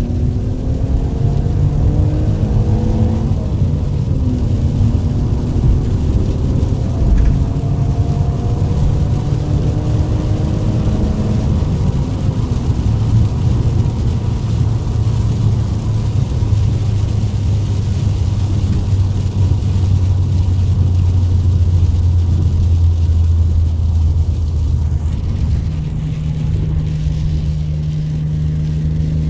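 A car's 2.5-litre engine pulling through a couple of gears, its note climbing in pitch over the first dozen seconds or so and falling back at each shift, then settling into a steady low drone at cruising speed. The note changes again near the end.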